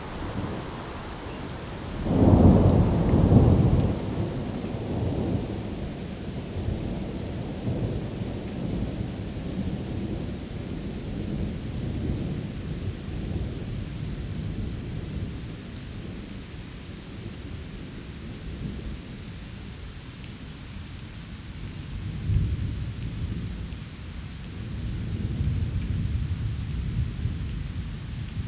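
Thunderstorm ambience: steady rain with rolling thunder. A loud thunderclap rumbles about two seconds in and dies away slowly, and softer rumbles swell near the end.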